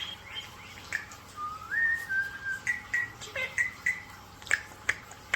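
Clear whistled notes: a note sliding up, a held note, then about four short repeated notes, followed near the end by a few sharp clicks.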